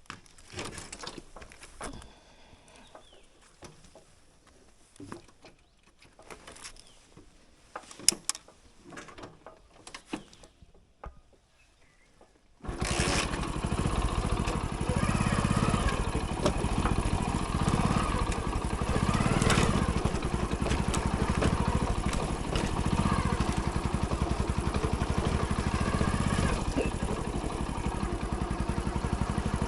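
Faint rustles and scattered small clicks, with one sharp click about eight seconds in. Then, about halfway through, a Hero Splendor motorcycle's single-cylinder four-stroke engine comes in suddenly and runs steadily and loudly.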